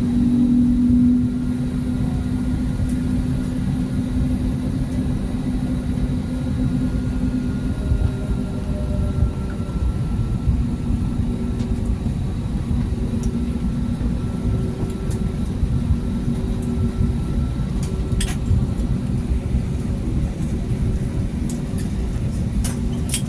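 Steady engine and airframe rumble inside an Airbus A320neo cabin during taxi, a low hum with a steady tone, slightly louder for the first second. A few faint clicks near the end.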